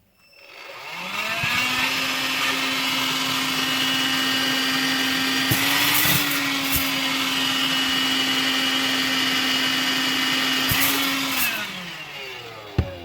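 Cordless stick vacuum cleaner motor spinning up over about a second, running at a steady pitch with a few clicks in the middle, then winding down near the end.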